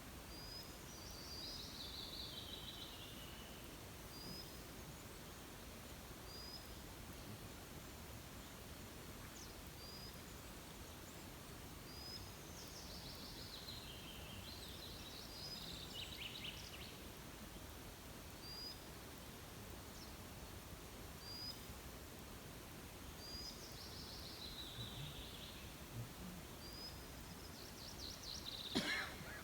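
Songbirds singing over a faint steady background: one bird repeats a short high chirp every second or two, while another sings a falling, trilled song phrase three times. A sharp knock sounds near the end.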